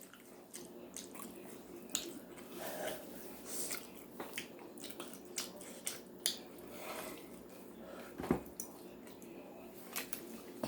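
Faint chewing of a chicken sandwich: scattered wet mouth clicks and smacks.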